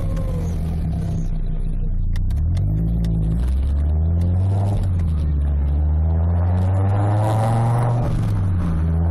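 Fiat Coupé 20V's naturally aspirated five-cylinder engine, loud through a custom stainless exhaust with a sports catalytic converter, pulling up through the revs under acceleration. There is a break in pitch about halfway, like a gear change, then the revs climb again before dropping suddenly near the end as the throttle is lifted.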